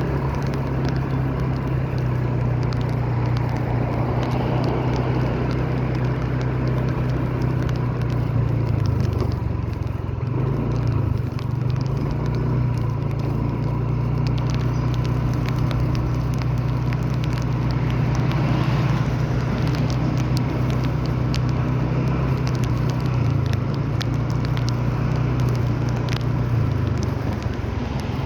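Vehicle engine running steadily, its hum dropping briefly in pitch about nine seconds in and rising again a few seconds later, with rain patter and scattered light ticks over it.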